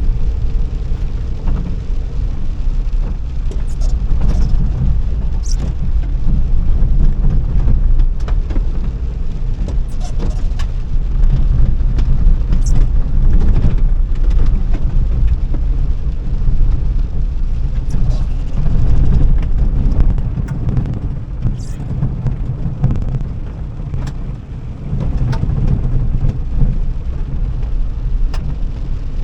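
A car being driven: a steady low rumble of engine and road, with scattered short knocks and rattles.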